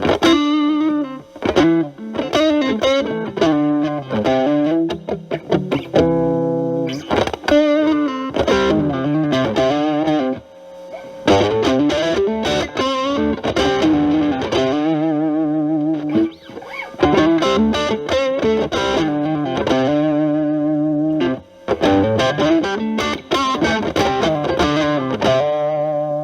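Strat-style electric guitar through a Boss DS-1 distortion stacked with an Ibanez TS9 Tube Screamer into a Marshall Valvestate amp, with the guitar's volume knob rolled back so the overdrive cleans up. It plays single-note lead phrases with bends and vibrato, separated by short pauses.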